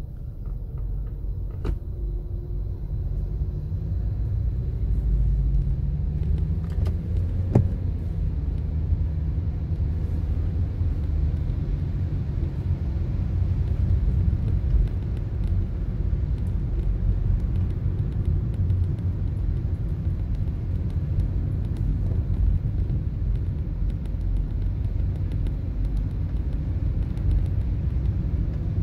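Toyota Corolla driving, heard from a dashcam inside the cabin: a steady low engine and road rumble that builds over the first few seconds as the car picks up speed. There are two short knocks, at about two seconds and at about seven and a half seconds.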